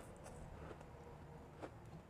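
Faint crunching of refrozen blended ice being chewed close to the microphone, with soft scattered crackles and one sharper crunch near the end.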